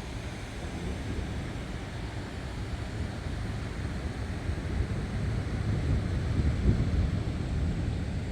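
Wind gusting across the microphone, with a low rumble of distant thunder that swells about two-thirds of the way through.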